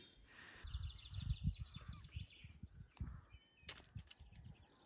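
Wild birds singing faintly in the open: a quick run of high chirps about a second in and a high trill near the end. Under them, irregular low rumbles on the microphone, and a single sharp click just past the middle.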